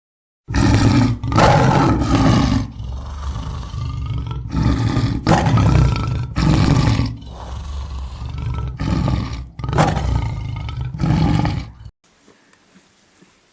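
A big cat roaring and growling over and over, a string of loud, deep calls with short breaks between them, cutting off abruptly near the end.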